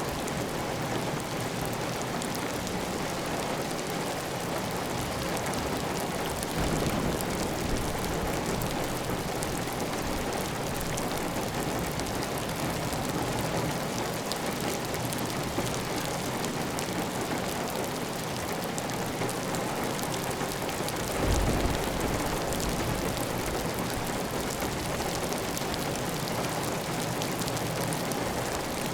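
Heavy, steady rain pattering on a clay tile roof, with water running off the roof edge. Two brief low rumbles come through, one about six seconds in and one about twenty-one seconds in.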